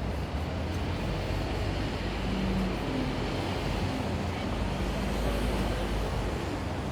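Steady city street noise: a low traffic rumble under an even hiss, with no distinct events.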